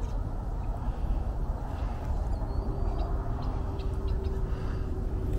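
Outdoor ambience: a steady low rumbling noise throughout, with a few faint, short, high bird chirps and a brief whistle from about halfway through.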